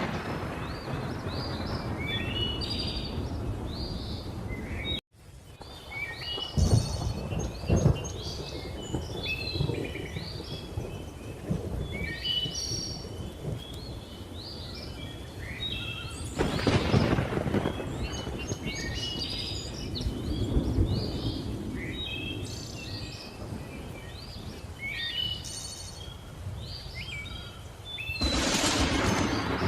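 Many birds calling in short, repeated chirps and whistles over a thunderstorm, with rolls of thunder swelling up about seven, seventeen and twenty-eight seconds in. The sound cuts out completely for an instant about five seconds in.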